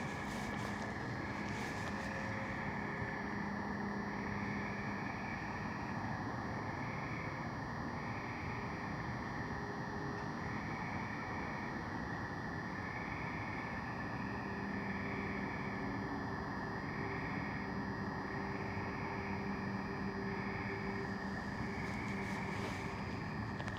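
Steady nighttime outdoor ambience: a continuous rushing hum with a steady high-pitched tone and a faint high chorus that pulses about once a second, with no footsteps.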